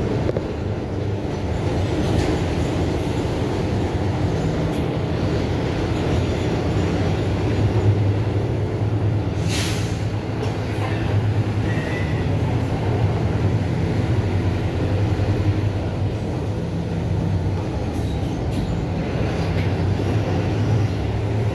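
Mercedes-Benz OF-1721 BlueTec 5 bus diesel engine running steadily under way, with a brief hiss about halfway through.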